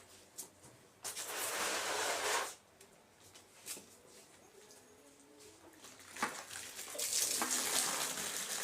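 Water splashing in two bursts, the first about a second in and lasting a second and a half, the second starting near the middle and running on, with a few light knocks between them.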